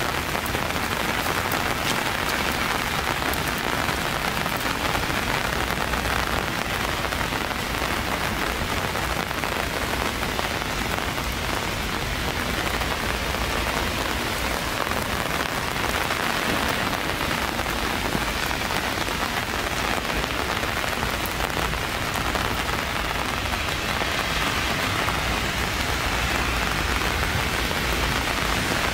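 Steady rain falling: an even hiss of many drops at an unchanging level.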